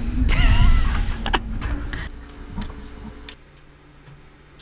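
Steady electrical hum from the boat's electric drive system, with a few sharp clicks; about three seconds in the hum drops to a lower pitch and a faint high whine joins it. A short wavering whine sounds in the first second.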